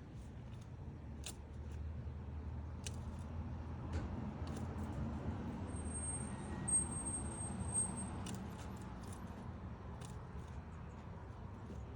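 A road vehicle rumbling past, swelling through the middle and fading, with scattered sharp taps of a woodpecker chipping at its nest hole. A thin high whistle runs for about two seconds midway.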